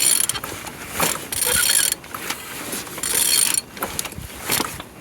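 A used BMW N46B20B inline-four engine being turned over by hand with a ratchet wrench: four rasping strokes about a second apart, each with clicking from the ratchet and the engine's internals. The engine turns freely.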